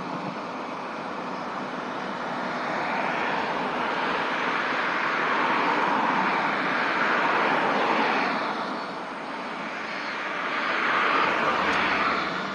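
Empty freight train running past, a steady rolling noise of wheels on rails that swells and fades in waves, loudest in the middle and again near the end.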